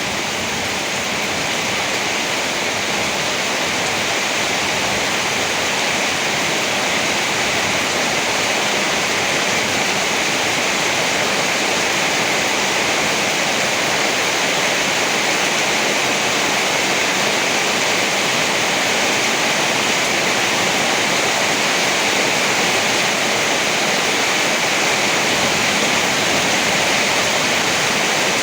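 Heavy rain falling steadily, a dense, even rush of noise with no thunder.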